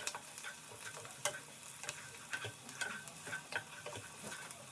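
Chopped onions sizzling quietly in oil in a frying pan over medium heat, with scattered small crackles and pops as they begin to caramelise.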